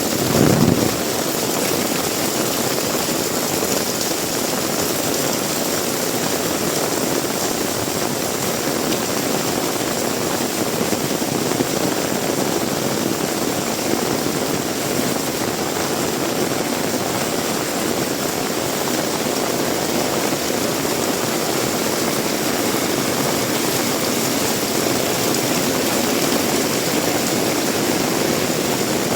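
Heavy rain pouring steadily with wind, a continuous rushing noise, with a brief louder rush about half a second in.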